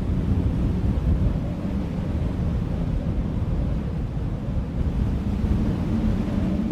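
Desert wind buffeting the microphone: a steady, fluctuating low rumble with little high-pitched content.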